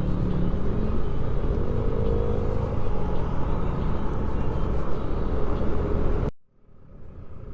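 Motorcycle engine and wind noise while riding at road speed, with a faint engine note that rises briefly about two seconds in. The sound cuts off abruptly near the end, then quieter riding noise fades back in.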